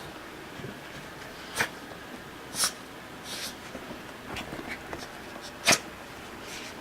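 A dog and a cat play-wrestling: soft scuffling and a few snorts, broken by three sharp clicks or taps.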